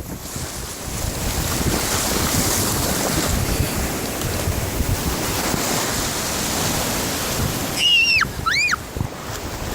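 Ocean surf washing on a beach, with wind buffeting the microphone. About eight seconds in come two short, high-pitched calls, each rising and falling.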